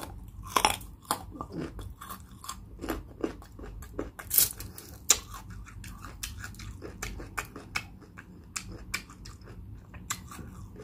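Close-miked chewing of crispy pata, a deep-fried pork knuckle: irregular crunchy clicks and bites through the mouthful, with no speech.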